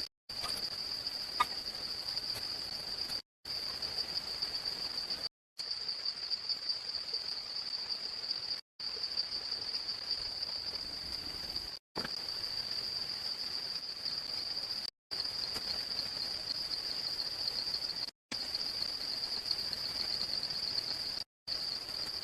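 Rainforest insects shrilling in one steady high-pitched drone over faint background hiss, broken by brief silent gaps about every three seconds.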